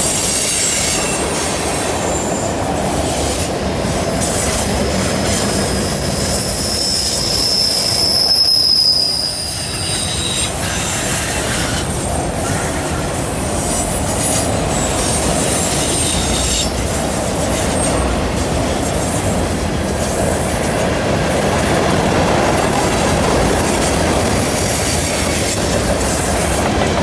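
Freight cars rolling past on a curve: a steady rumble and rattle of steel wheels on rail. A high wheel squeal rings out for a few seconds about five seconds in.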